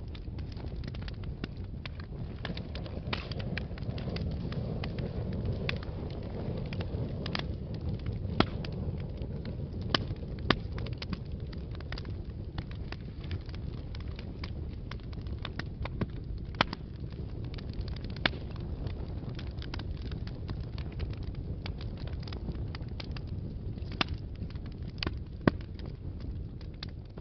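Wood fire burning in a fireplace: a steady low rumble of flames with frequent crackling and sharp pops from the burning logs.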